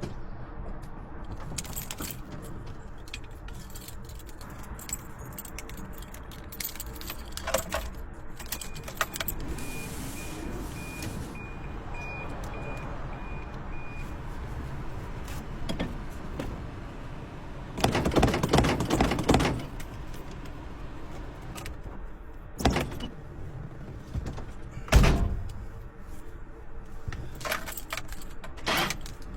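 Keys jangling, with clicks and knocks from inside a 1984 Toyota Sunrader's cab as it is readied for a cold start. A beeping chime sounds for several seconds near the middle, a louder rushing noise lasts about a second and a half later on, and a sharp thump follows.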